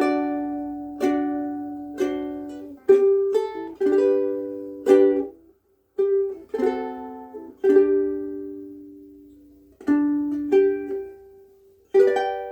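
KoAloha ukulele played slowly: chords sounded one at a time and left to ring out and fade, with a brief pause about halfway through.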